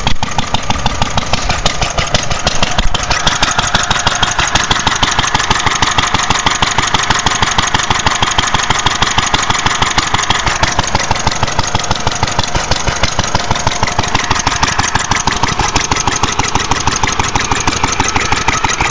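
International Harvester LA 1½–2½ hp single-cylinder antique gas engine running slow at idle, a steady, even beat of firing strokes.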